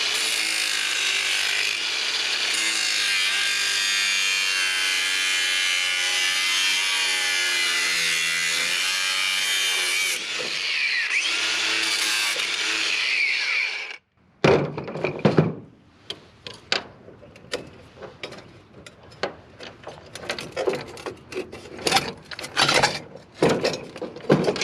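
Cordless angle grinder cutting through the crimped steel housing of a garbage disposal, a steady high whine whose pitch sags and recovers under load, cutting off suddenly about fourteen seconds in. After it, a run of sharp metal knocks and clatters as the cut parts are handled.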